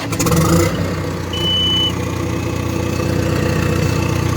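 Bulldozer's diesel engine just after firing up, running roughly for a moment and then settling into a steady idle as it warms up from a cold start. A short high-pitched tone sounds about a second and a half in.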